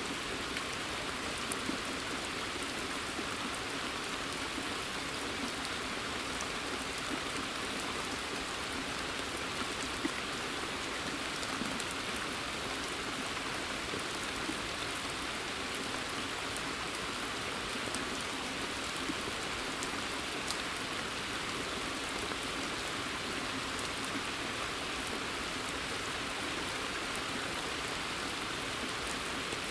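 Steady rain falling on pond water and forest foliage: an even hiss with scattered louder drop ticks.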